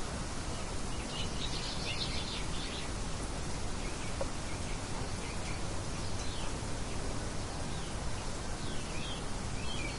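Steady wind-like noise with birds chirping over it: a cluster of quick chirps about a second in, a few around the middle, and more near the end.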